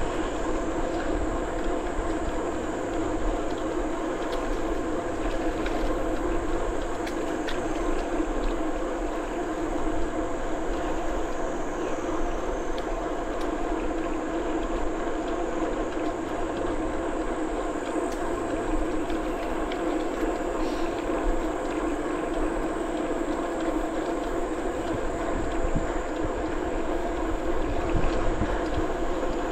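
Bicycle rolling along a paved trail: steady tyre and riding noise, a constant hum and rumble with no break.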